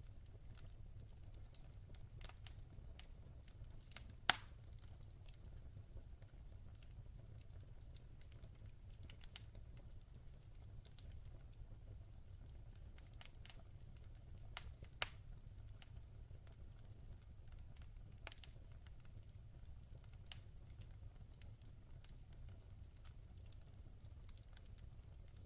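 Log fire burning quietly with scattered soft crackles and snaps over a low steady rumble, with a sharp pop about four seconds in and another about fifteen seconds in.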